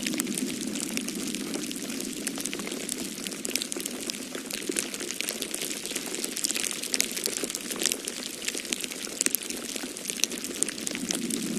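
Wood fire crackling with many small, irregular pops over a steady low rush of storm wind.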